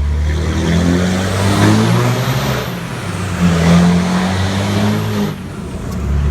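Cummins diesel pickup's engine through a 5-inch straight exhaust with no muffler, accelerating hard inside a tunnel. The engine note climbs, eases off briefly, climbs again and drops away near the end, with a faint high whistle rising and falling over it.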